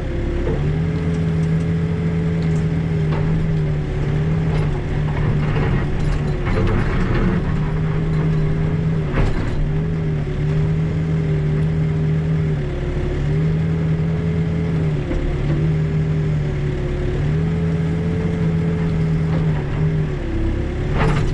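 Backhoe engine running steadily under load, its pitch dipping briefly every couple of seconds as the hydraulics work the bucket through hard shale. A few scrapes and knocks of the bucket breaking the shale out, the sharpest about nine seconds in.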